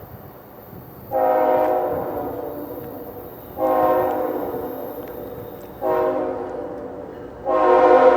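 Locomotive horn sounding four blasts, long, long, short, long: the standard signal for approaching a grade crossing. The last blast is the loudest.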